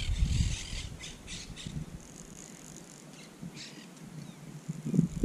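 Birds calling in short, harsh squawks, several in the first two seconds and one more near the middle, with a low rumble of wind on the microphone at the start and again near the end.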